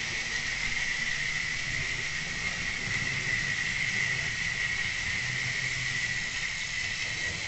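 Tri-ang OO gauge model locomotive running along the track, its small electric motor giving a steady high-pitched whine.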